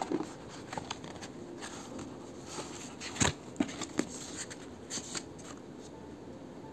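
Small objects being handled: scattered clicks and light knocks with brief rustling, the sharpest taps coming about three to four seconds in.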